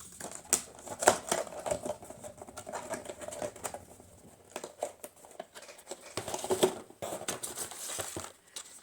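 Packaging being handled and rummaged through in a subscription box: irregular rustling with scattered sharp clicks and light knocks.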